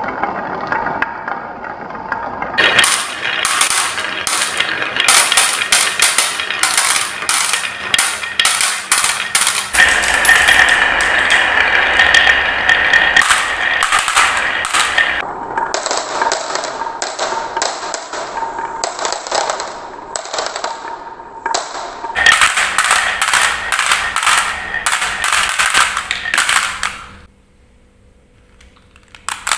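Marbles rolling and clattering down a marble run: a dense stream of rapid clicks and rattles that changes character several times, then drops away for about two seconds near the end before the clicking starts again.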